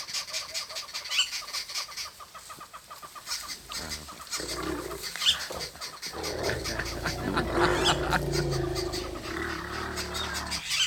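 Small birds giving rapid, repeated chattering alarm calls, the scolding of birds mobbing a spotted eagle owl. A low rumble joins in about halfway through.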